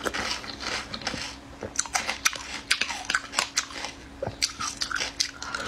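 Close-up mouth sounds of eating pickled mud snails: chewing and crunching with many sharp, irregular clicks and small wet crackles.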